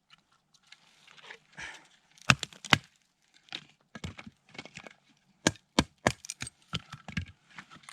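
Hatchet and pieces of firewood being handled, making a series of sharp wooden knocks and cracks: two loud strikes a couple of seconds in, then a quicker cluster of knocks in the second half.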